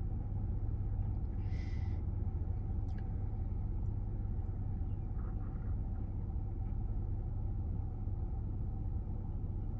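Steady low rumble of a car idling, heard from inside the cabin. A brief hiss-like noise comes about one and a half seconds in.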